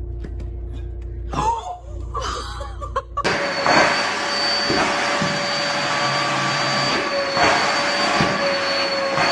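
A low hum, then about three seconds in a small electric motor starts up with a loud steady rush of air and a high whine.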